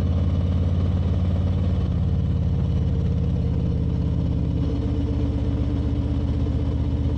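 Motorcycle engine running steadily while cruising on the road, its tone shifting slightly about two seconds in and again near five seconds.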